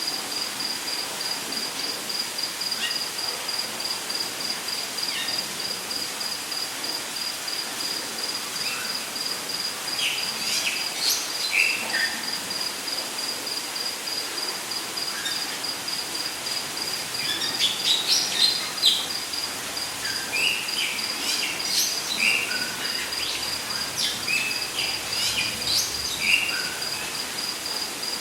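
Rainforest ambience: an insect trilling on one high, even, pulsing note without a break, with short bird calls and chirps scattered over it, busiest in the second half, over a steady hiss.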